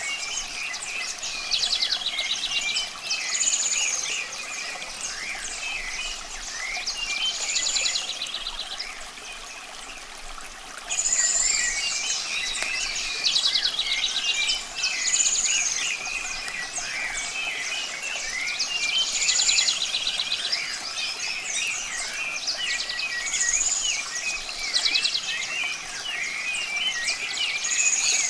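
Several songbirds chirping and calling together. A short high whistle followed by a rapid buzzy trill recurs about every four seconds, and the chirping thins out for a few seconds in the middle.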